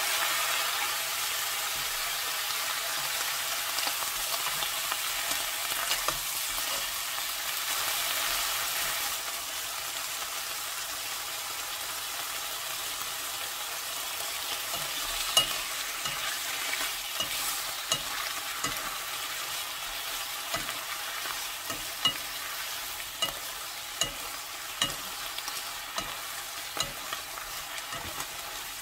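Fish cake, onion and carrot sizzling as they are stir-fried in a nonstick wok. The hiss is loudest for the first nine seconds or so, just after a little water goes into the pan, then settles lower. Through the second half a wooden spatula knocks against the pan about once a second as it stirs.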